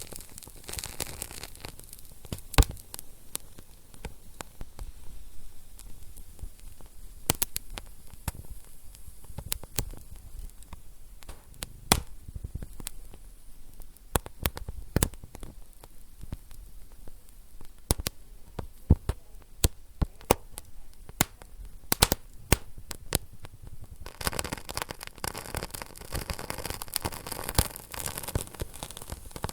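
Wood fire crackling and popping: many sharp, irregular pops and snaps over a faint hiss, with a louder steady hiss coming in about four-fifths of the way through.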